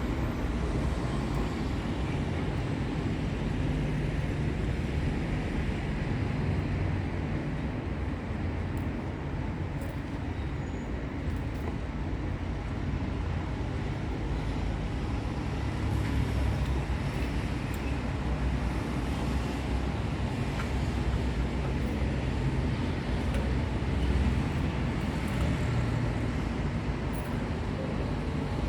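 Steady low rumbling background noise with no birdsong, with a few faint clicks.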